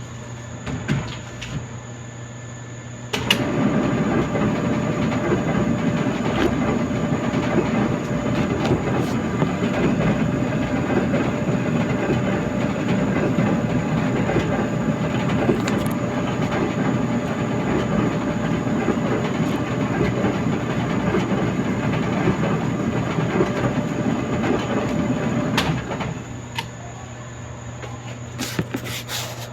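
Clothes dryer switched on about three seconds in, its motor and tumbling drum running with a steady rumble, then switched off a few seconds before the end. A few short clicks come just before it starts and after it stops.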